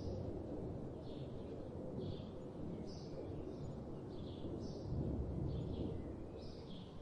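Bird chirping: short high calls repeating roughly once a second over a low, steady outdoor rumble.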